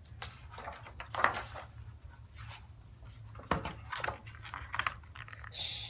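Handling noises of a picture book being picked up and opened: scattered light knocks and rustles, the loudest knock about a second in, then a short whispered "shh" at the very end.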